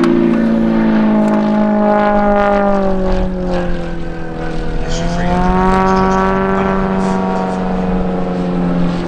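Propeller engine of an aerobatic display aircraft running steadily. Its note sinks in pitch through the first half, bottoms out about four seconds in, then climbs again.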